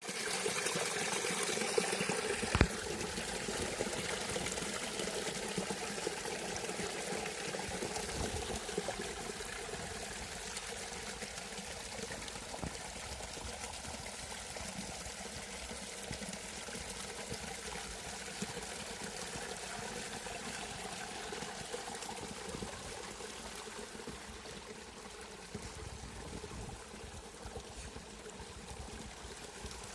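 Forest stream flowing steadily over its bed, a continuous rush and trickle of water. A single sharp click sounds about two and a half seconds in.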